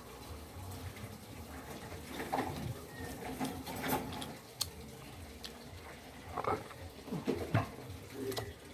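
Close-up eating sounds from a mukbang of mutton curry and rice: wet chewing and mouth smacking with irregular small clicks, and a few louder squelches a couple of seconds in and again near the end.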